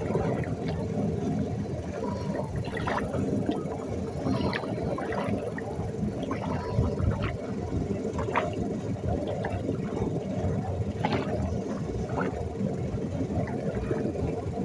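River water gurgling and sloshing at the shallows, with scattered short splashes.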